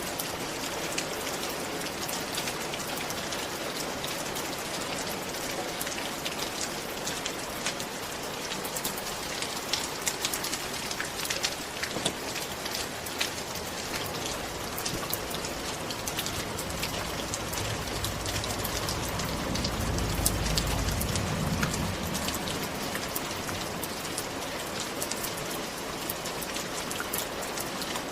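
Steady rain falling, a dense hiss with many individual drops ticking. A low rumble swells and fades about two-thirds of the way through.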